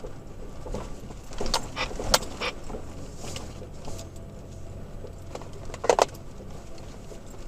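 Inside the cab of a third-generation Toyota Tacoma on a rough trail: a low, steady engine and road hum with scattered clicks, knocks and jangling rattles as the truck jolts over bumps. The loudest knock comes about six seconds in.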